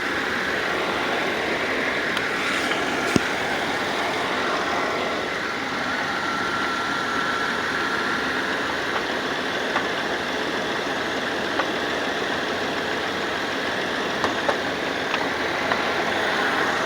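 Car engine idling steadily with the air conditioning running while refrigerant charges in through the low side. One sharp click about three seconds in and a few lighter ticks later.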